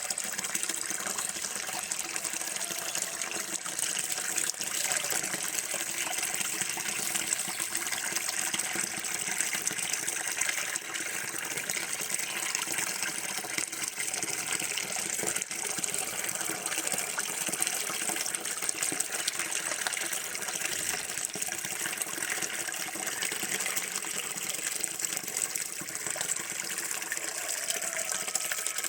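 Running water gushing steadily in an even, unbroken rush.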